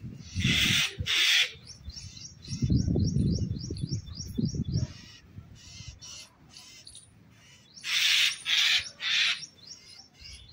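Birds calling: two groups of harsh, scratchy calls, about half a second in and again around eight seconds, with quick repeated chirps between them. A low rumble runs under the first half.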